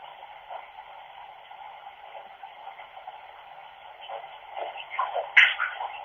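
Running bath water picked up by a flip phone's small microphone, a steady thin hiss. A few louder irregular sounds come near the end, the loudest a sharp one about five seconds in.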